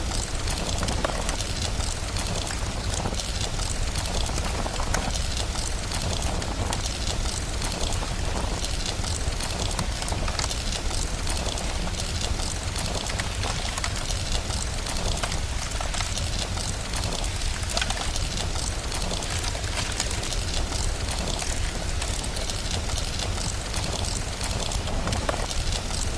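Steady rain with a deep low rumble, mixed with the small crackles and pops of a fireplace.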